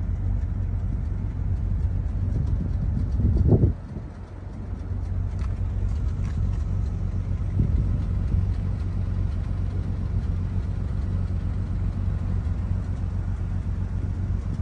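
Steady low rumble of a moving car, engine and road noise together, with a louder swell about three and a half seconds in that drops off suddenly before the rumble builds back.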